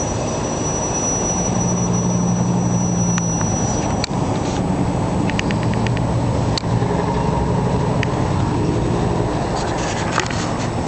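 Crane engine running steadily, its pitch shifting as it works, with a few sharp clicks in the middle and near the end.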